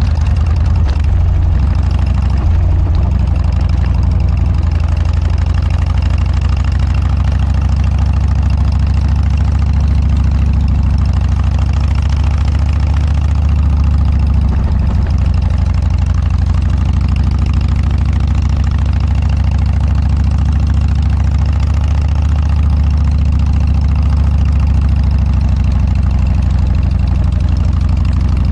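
Harley-Davidson Dyna's V-twin running steadily through a Motor Stage aftermarket muffler, a deep, even exhaust note with no revving.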